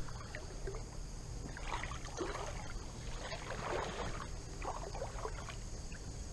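Water sloshing and swishing in a few irregular surges about a second apart as legs in waders push through creek water.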